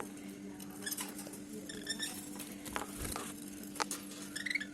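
Pet budgerigars making soft short chirps, with scattered sharp clicks, over a steady low hum.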